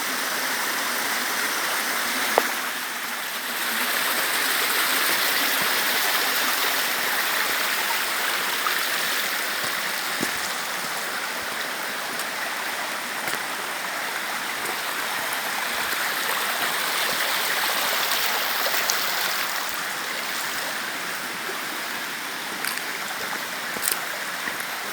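River water running steadily over rocks in a shallow stream, an even rushing hiss, with a couple of short sharp clicks, one a little over two seconds in and one near the end.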